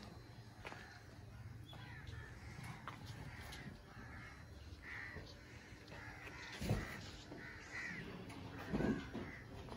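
Birds calling over and over in short calls, with two low thumps in the second half.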